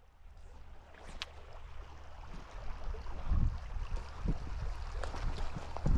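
Flowing river water, with irregular low rumbles of wind buffeting the microphone and a short tick about a second in.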